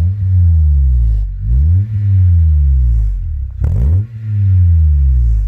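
Acura RSX Type S four-cylinder engine through a Yonaka cat-back exhaust, free-revved three times while standing: each time the pitch climbs quickly and then falls back slowly toward idle.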